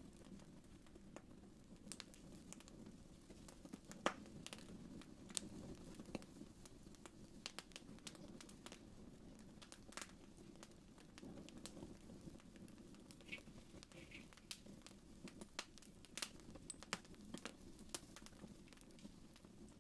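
Wood fire crackling softly: scattered sharp pops and snaps over a steady low hiss, the loudest pop about four seconds in.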